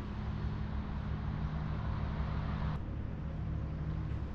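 A vehicle driving: a steady low engine and road hum under a hiss, and the hiss drops away suddenly about three seconds in.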